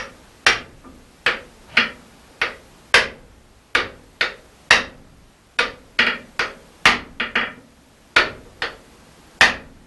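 Blacksmith's hammer striking a steel drift set in the eye of a hot axe head: a steady run of about eighteen sharp blows, a little under two a second and unevenly spaced, each with a short ring.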